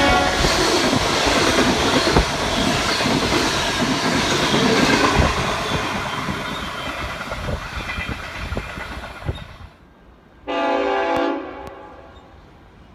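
Passing train rumbling and clattering over the rails, its horn still sounding at first, the noise fading steadily as it moves away. About ten seconds in, a single short train horn blast of about a second.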